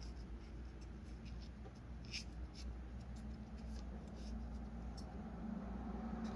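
Faint scattered clicks and scratching from hands handling wiring, over a low steady hum.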